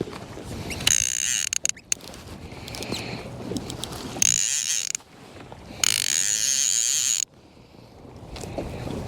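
Fishing reel clicker buzzing in three short bursts as line is pulled off the spool, the last lasting over a second. The clicker is the alarm that line is peeling out.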